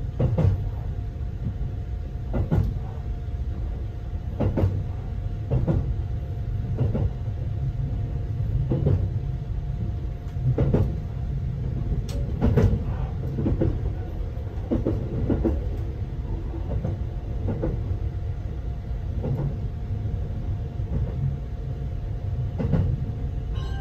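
Interior running noise of a JR 285 series sleeper train car: a steady low rumble with irregular knocks and clacks every second or two, as of wheels over rail joints, and a faint steady tone.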